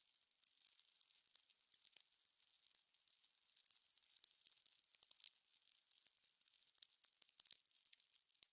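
Wood fire crackling: irregular sharp snaps and pops over a faint, high hiss.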